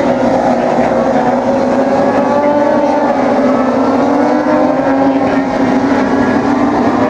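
Racing motorcycle engines running at high revs on the track: a steady, loud drone with several pitches slowly drifting up and down.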